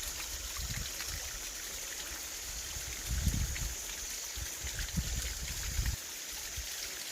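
Water from a woodland spring trickling and flowing steadily, with a few low thumps, the loudest about three seconds in.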